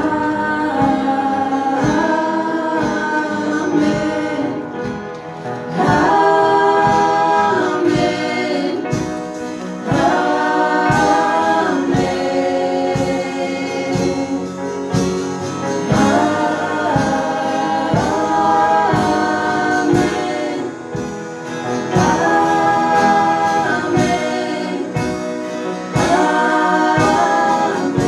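Choir singing held chords in phrases of a few seconds each, without clear words, over a steady instrumental pulse, in a gospel worship song.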